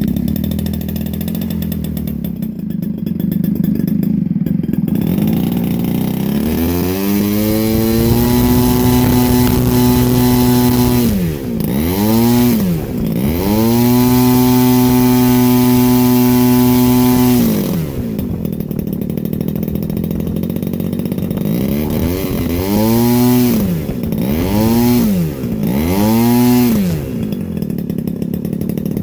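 Moki 1.8 single-cylinder two-stroke model aircraft engine with spark ignition, running on gasoline and turning a large propeller. It idles, is throttled up to full power twice and held there for several seconds each time, drops back to idle, then gets a few quick throttle blips near the end.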